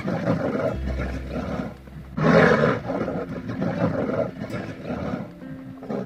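A large animal giving a series of rough, noisy calls, the loudest about two seconds in, over background music.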